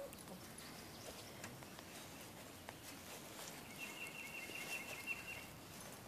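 Faint outdoor ambience with a bird's brief high trill a little past the middle: a rapid run of about eight short notes at one pitch.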